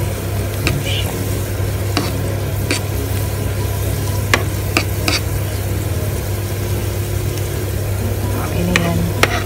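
Chopped garlic sizzling in hot oil in a pan, stirred with a porcelain spoon that clicks and scrapes against the pan now and then.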